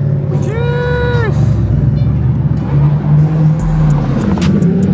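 Supercar engines running loudly in a low, steady drone as the cars pull out. About half a second in, a short higher-pitched sound rises, holds and falls away.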